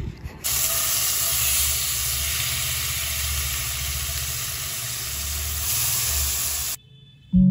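Kimchi frying in hot oil in a nonstick frying pan: a steady, loud sizzle that cuts off suddenly near the end.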